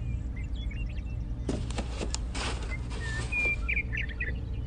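Small birds chirping and tweeting in short calls, over a steady low hum, with a few short clicks about one and a half to two and a half seconds in.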